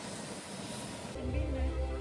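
A steady rushing outdoor noise, cut off abruptly about a second in when a song with heavy bass starts.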